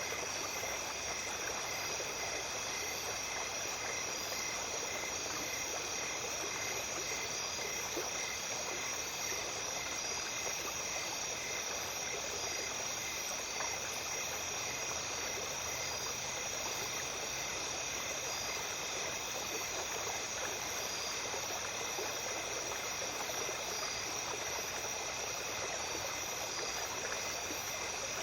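A small stream flowing steadily, with insects calling over it: a continuous high trill and a slower, evenly repeating chirp.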